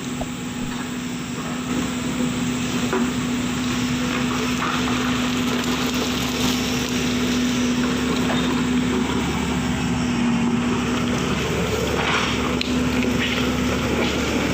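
Engine of road-works machinery running steadily under load, a constant hum with a noisy rumble over it.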